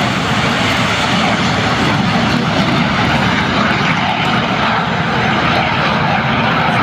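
Messerschmitt Me 262 replica's twin General Electric CJ610 turbojets running at high power during takeoff: a loud, steady jet rush.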